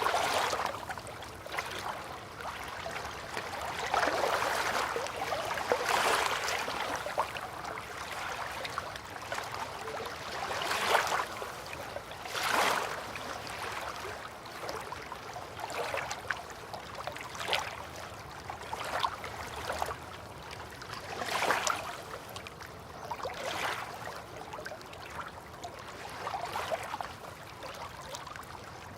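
River water lapping and splashing in small, irregular waves, one every second or two.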